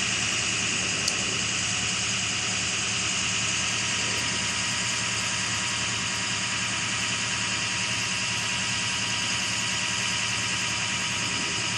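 A vehicle engine idling steadily, with one faint click about a second in.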